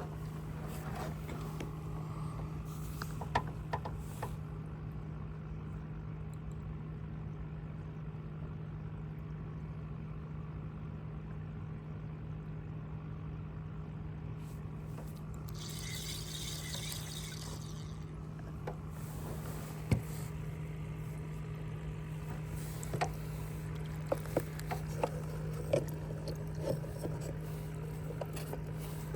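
Boat sitting on the water with a steady low hum and light water trickling against it. A brief hissing rattle comes about halfway through, and scattered knocks and clicks follow near the end.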